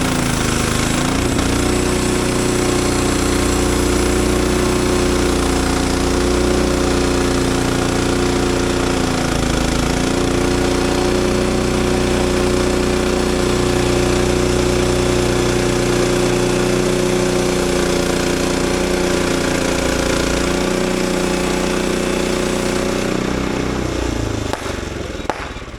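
Frontier OS23 portable band sawmill running under load, its small gas engine and band blade sawing through a pine log. The engine pitch sags briefly twice as the blade loads up, then falls away near the end as the engine throttles down.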